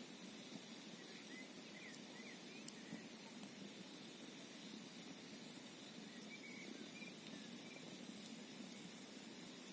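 Campfire crackling faintly, with scattered small pops and one sharper pop about three seconds in, over a steady rushing background of a flowing mountain stream and wind.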